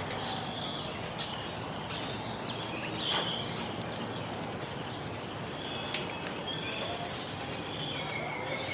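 Village ambience after rain: birds chirping and calling here and there over a steady background hiss with a constant high, thin tone. A couple of short clicks come through, the louder about three seconds in and another about six seconds in.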